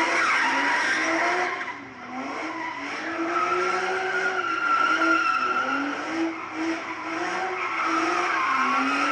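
A Nissan car spinning its tires: a high steady tire squeal over the engine, whose revs rise and fall, with a brief drop about two seconds in.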